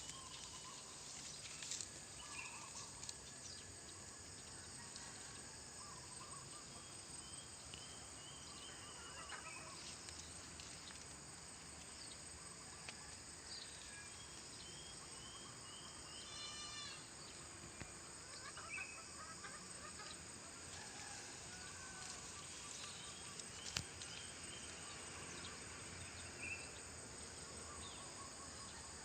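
Outdoor ambience: a steady insect drone with scattered short bird chirps, and a brief rapid rattling trill about halfway through.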